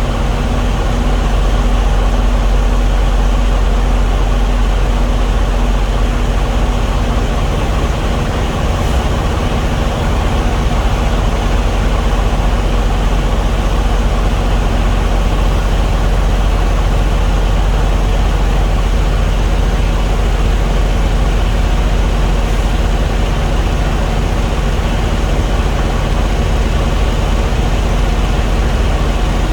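A heavy diesel engine running steadily at an even speed.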